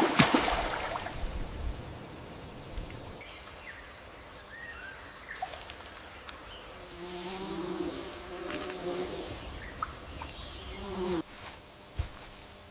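Insect buzzing in rainforest ambience, coming in twice in the later part, with a few short faint chirps before it and a brief rush of noise at the very start.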